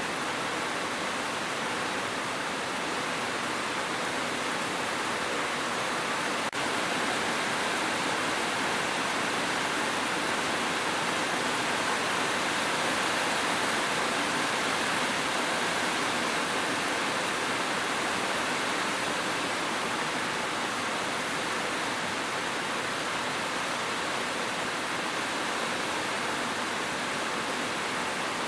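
Steady, even hiss of heavy rain, unchanging apart from a momentary dip about six and a half seconds in.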